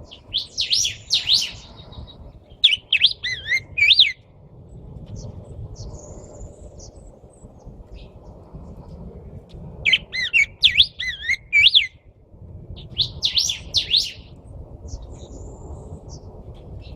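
Songbird singing in four short bursts of quick, warbling whistled notes that swoop up and down, with pauses of a few seconds between bursts.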